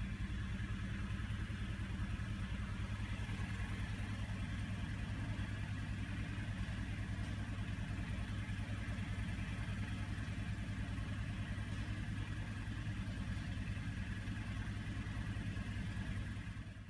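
Mazda CX-5 four-cylinder SkyActiv-G direct-injection petrol engine idling steadily, with a fast, even pulse.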